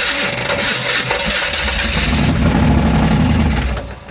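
Maserati engine cranking on the starter, then catching about two seconds in and running briefly before it dies near the end: the engine fires but won't stay running.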